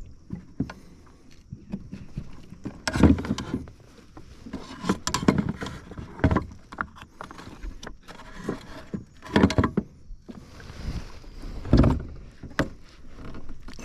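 Knocks, rubs and scrapes from a fishing kayak's hull and gear as the angler moves about, with several louder thumps spaced a second or more apart.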